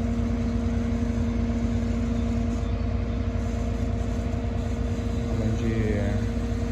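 Crane truck's engine running steadily while powering the crane, with a steady hum over it.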